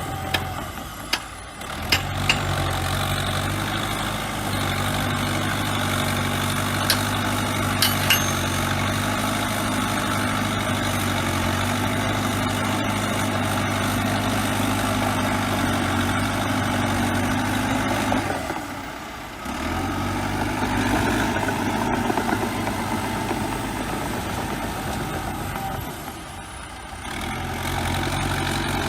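Bulldozer diesel engine running steadily, with several sharp knocks in the first few seconds. The sound drops away briefly twice, once about two-thirds through and again near the end.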